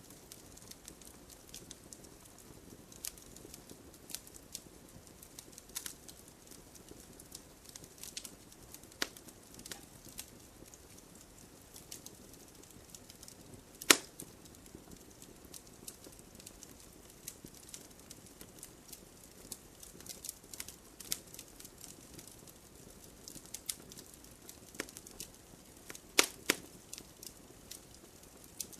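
Wood fire burning in a fireplace, crackling with scattered sharp pops over a soft low rumble of flame; one loud pop about halfway through and a quick pair of pops near the end.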